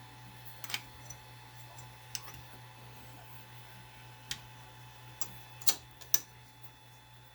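Sharp metallic clicks, about six at irregular intervals, from hand tools knocking against the metal parts of an Ender 5 Plus 3D printer while its wheels are loosened. A steady low hum runs underneath.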